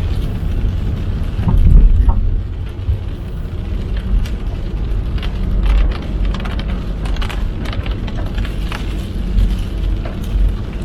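A car driving in heavy rain: a steady low rumble of tyres and engine, which swells briefly about two seconds in, with scattered raindrops tapping on the car.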